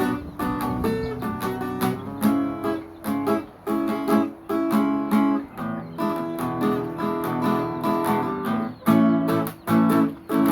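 Acoustic guitar strummed and plucked in rhythmic chords.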